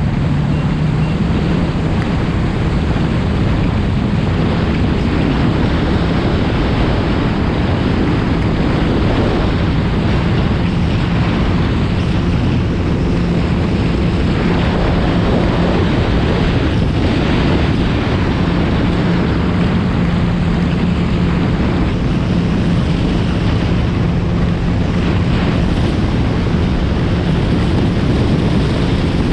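Yamaha FX SVHO jet ski's supercharged four-stroke engine running steadily at speed, with wind rushing over the microphone and water spray and hull noise from the boat cutting through the water.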